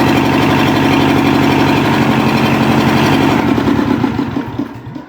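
Restored tractor engine idling steadily, then slowing and dying away to a stop about four seconds in as it is shut off.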